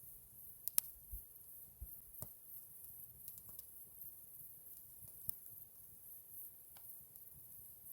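Campfire crackling: scattered sharp pops and ticks from burning wood, the loudest a quick double pop about a second in, over a faint steady hiss.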